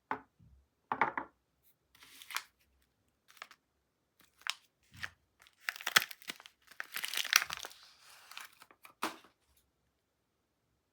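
Soap packaging being torn open and crinkled by hand, in irregular short rustling bursts that grow densest between about six and eight seconds in.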